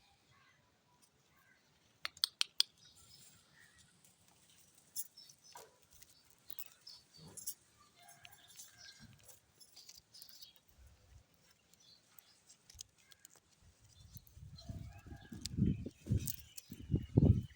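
Alexandrine parakeet giving scattered short chirps and clicks, with a cluster of sharp clicks about two seconds in. Louder low rumbling comes in over the last few seconds.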